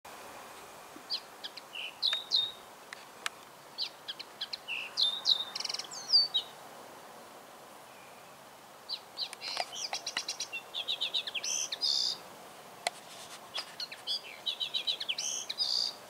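A songbird singing in three bouts of varied sharp chirps, whistled notes and quick trills, with short pauses between the bouts.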